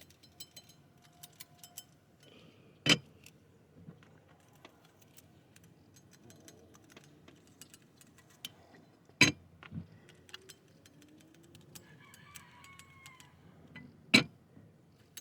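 Light metallic clinks and ticks of a feeler gauge's thin steel blades and a straightedge being handled against a cylinder head while checking it for flatness, with three sharper clicks about three, nine and fourteen seconds in.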